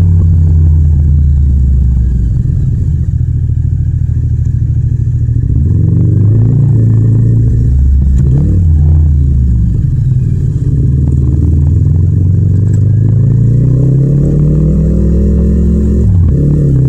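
Yamaha MT-07's parallel-twin engine and exhaust under way, its revs holding, rising and falling several times as the rider accelerates and shifts, with a sharp drop in revs near the end. The recording has no wind noise.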